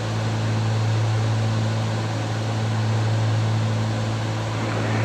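Steady drone of a Cessna 310's twin piston engines and propellers in flight, a constant low hum with hiss over it.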